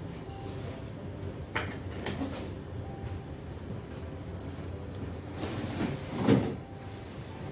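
Cardboard carton of a portable air conditioner being opened and handled: a couple of knocks, then a longer scraping slide of packaging that peaks about six seconds in.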